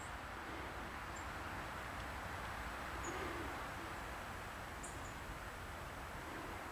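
Steady outdoor background hiss. A few faint, very short high bird chirps are scattered through it, with a soft low hoot about three seconds in.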